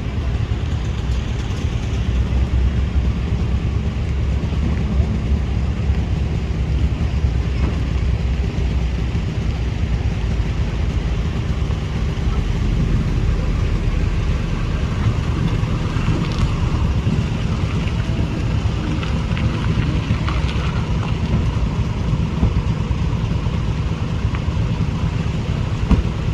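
An engine running steadily, a constant low rumble with a few faint knocks over it.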